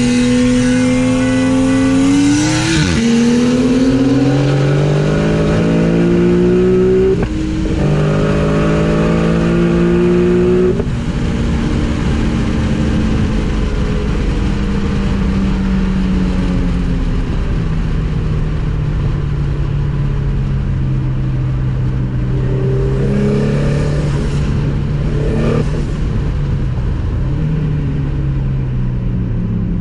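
Boosted car engine accelerating hard through the gears. The pitch climbs and drops at each shift, about 3, 7 and 11 seconds in, then the engine runs on more steadily at lower revs, easing off.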